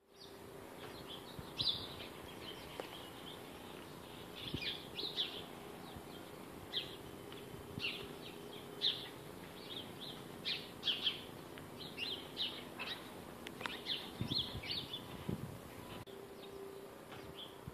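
Many small birds chirping in trees: dozens of short, high chirps scattered irregularly throughout, over a faint steady hum.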